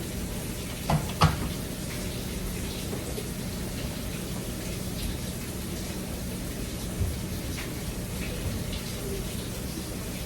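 Steady running water, with two sharp knocks about a second in.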